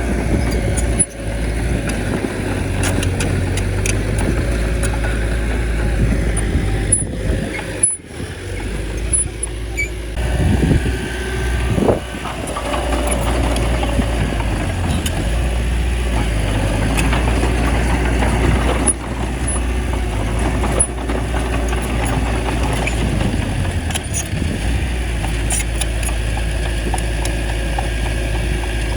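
Bulldozer diesel engine running steadily, with a short rise in pitch about ten to twelve seconds in and a few brief breaks early on.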